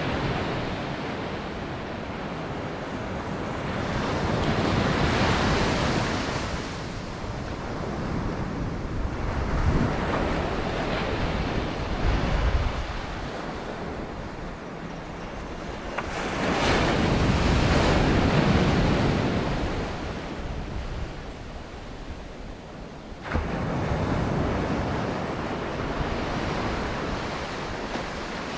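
Ocean surf: waves breaking and washing in, swelling and fading every few seconds, with wind buffeting the microphone.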